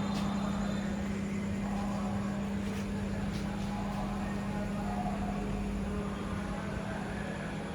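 Tractor-driven rice mill running steadily: a constant drone with dense mechanical noise from the engine and milling machinery.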